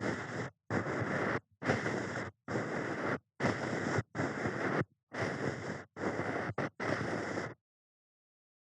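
Ear-cleaning sounds close at the microphone's ear: a cleaning tool rubbing and scraping in about nine short strokes of rustling noise, each under a second with silent gaps between. The strokes stop about a second before the end.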